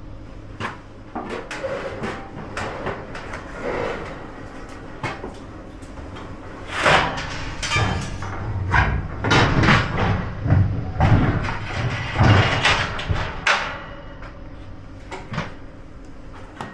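Clunks, knocks and scraping as a heavy grill is muscled off the back of a cargo van, with a run of heavy bumps and scrapes through the middle for about seven seconds.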